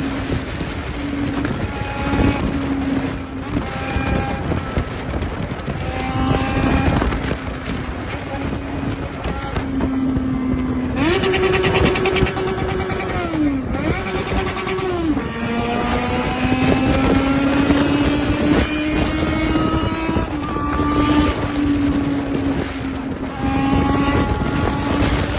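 Motorcycle engine running under way, its pitch climbing and dropping again and again as it is revved through the gears. Near the middle the revs are held high for a few seconds and dip sharply twice, all over a steady rush of wind noise.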